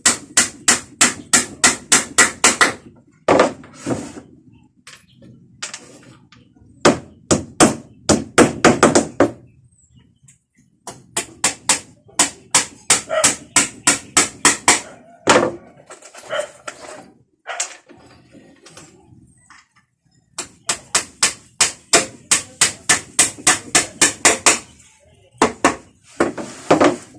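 A hammer striking in quick runs of about five blows a second, with pauses between the runs.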